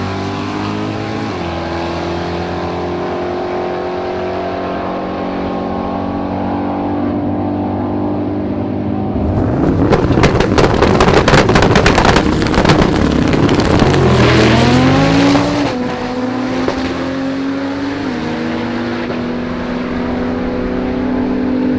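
High-powered drag race car engine idling with a lumpy, steady note. About nine seconds in it bursts into a loud, rough, rapid-crackling rev lasting about six seconds, with the pitch climbing near the end, then it settles back to idle.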